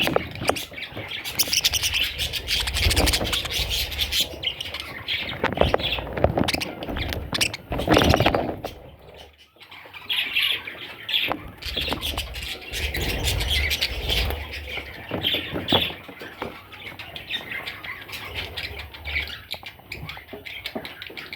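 Budgerigars chirping and squawking in a busy chatter, with a short lull about halfway through.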